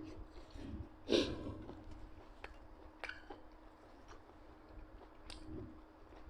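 A person chewing and eating, with a few short wet smacks or clicks; the loudest comes about a second in.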